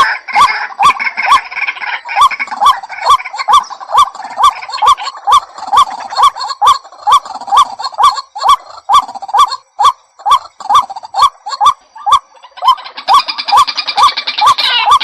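White-breasted waterhen calling a short note over and over, about twice a second, with sharp evenly spaced clicks among the notes. Near the end a busier, higher chattering joins in.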